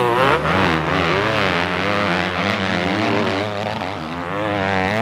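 Several motocross bikes racing, their engines rising and falling in pitch as the riders open and close the throttle, with more than one bike heard at once.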